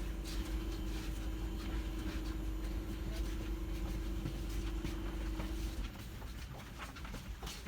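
Passenger train running: a low rumble with a steady hum and scattered irregular clicks and rattles. The hum stops and the sound drops a little about six seconds in.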